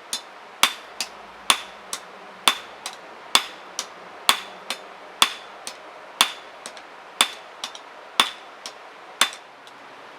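Blacksmith's hand hammer striking metal on an anvil in a steady forging rhythm, about one heavy blow a second. Most blows are followed by a lighter, ringing tap.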